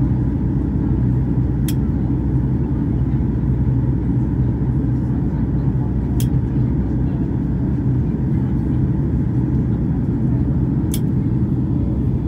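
Cabin noise of a Boeing 737-800 airliner in flight: a steady low rumble of the engines and airflow. Three faint sharp clicks come about four and a half seconds apart.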